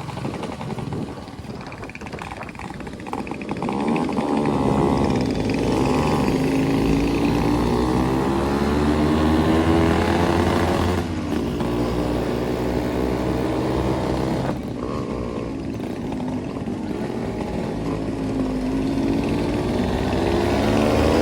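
Yamaha RX-series two-stroke motorcycle engines running at riding speed, their pitch rising and falling as they rev and change gear. The sound gets louder about four seconds in.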